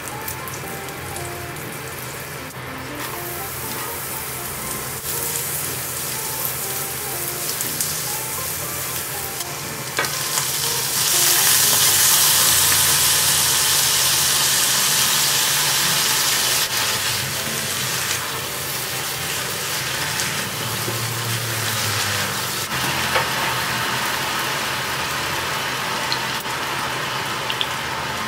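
Food sizzling in a frying pan, a steady hiss that grows louder about eleven seconds in and eases off a few seconds later.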